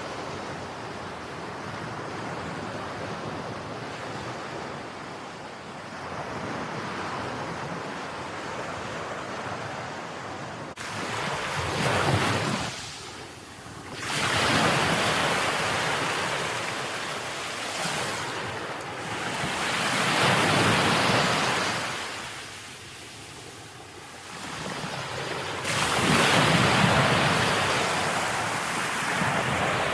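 Ocean waves washing on the shore. The sound is a steady wash at first, then from about a third of the way in it comes in loud surges every several seconds as waves break and recede, with some wind noise on the microphone.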